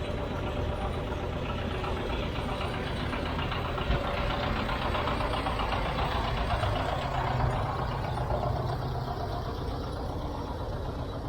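Tractor engine running steadily with a low rumble, growing louder for a few seconds in the middle.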